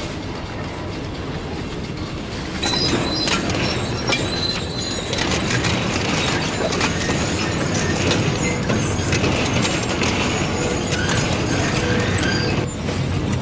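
Freight train boxcars rolling slowly past with a steady rumble while they scrape along the front of a pickup truck parked too close to the track. From about three seconds in, high metal screeching and repeated cracking and crunching come in as the truck's front bodywork is dragged and crushed.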